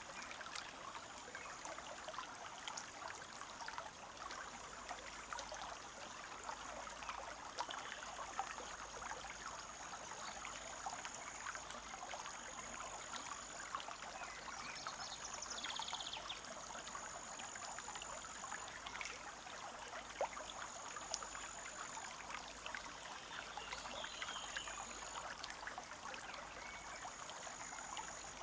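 Small forest stream babbling and trickling over stones, a steady wash of water with many small splashes. Above it a high thin tone sounds in long stretches with short breaks, and a bird calls briefly twice.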